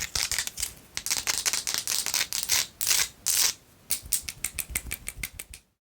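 Long fingernails tapping and scratching fast on a Himalayan salt rock: a quick run of sharp clicks with short scratchy rasps, ending abruptly near the end.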